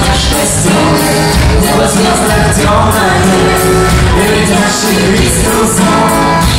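A live pop song played by a band with a steady drum beat, with singing.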